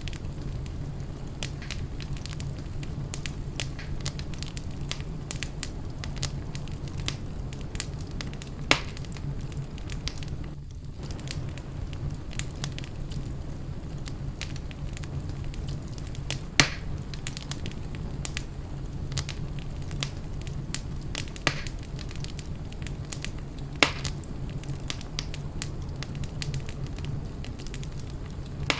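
Wood fire burning in a fireplace: a steady low rumble of flames with frequent small crackles and a few sharper pops.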